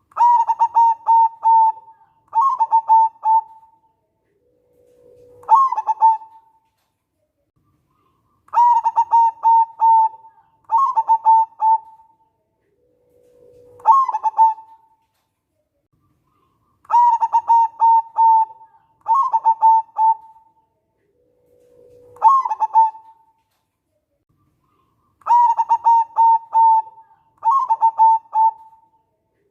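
Local zebra dove (perkutut) singing: four rounds of its song, each two rapid stuttering coo phrases followed by a shorter phrase that starts on a lower note, with short pauses between rounds.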